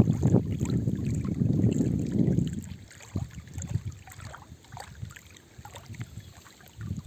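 Wind off the sea buffeting the microphone in an irregular low rumble. It is strongest for the first two and a half seconds, then drops to weaker gusts, and picks up again right at the end.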